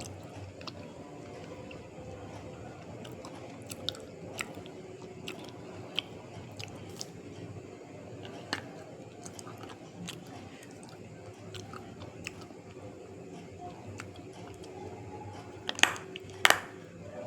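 A person biting and chewing pieces of a brittle white substance close to the microphone, giving scattered sharp crunches every second or two, the two loudest about a second apart near the end.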